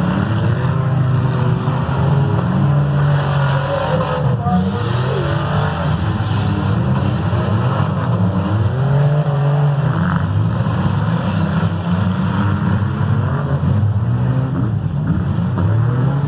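Several demolition derby car engines running and revving together, their pitches rising and falling over one another.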